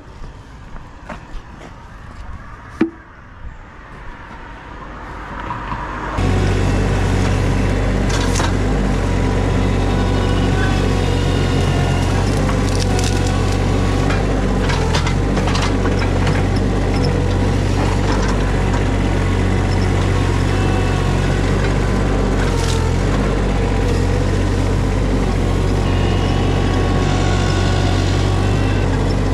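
A few scattered knocks and clicks, one louder knock among them, then about six seconds in a heavy engine comes in abruptly and runs loudly and steadily with a deep, even hum.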